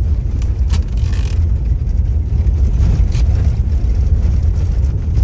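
Steady low rumble of a car in motion, heard from inside the vehicle: engine and road noise, with a couple of brief faint knocks or rattles.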